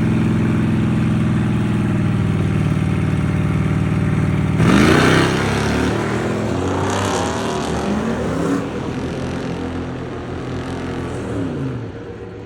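Drag-racing cars idling steadily at the line, then launching hard about four and a half seconds in: the engines rev up with their pitch climbing and dropping several times, growing fainter as they pull away down the track.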